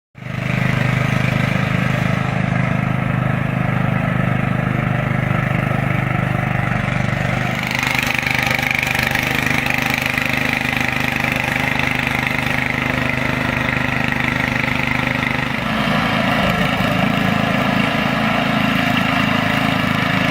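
An engine running steadily, its note changing twice, as if under changing load or speed.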